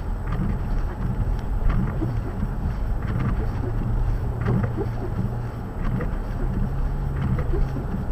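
A vehicle engine running steadily under a low rumble of wind on the microphone, with scattered light clicks.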